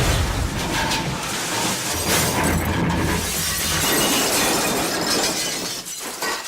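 A long crashing, shattering sound effect: dense noise with a heavy low rumble at the start, held steady for several seconds and fading near the end.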